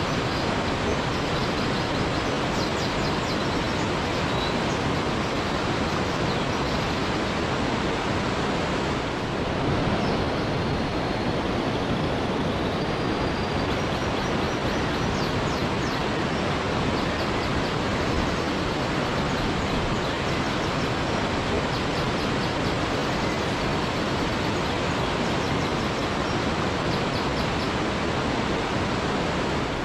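Waterfall rushing in a steady, even roar of falling water, with faint high chirps now and then.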